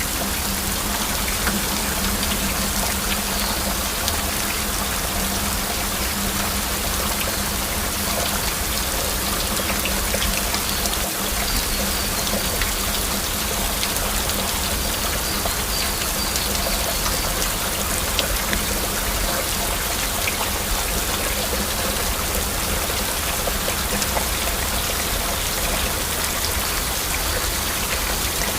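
Steady heavy rain: a constant hiss with a dense patter of individual drops, unchanging throughout.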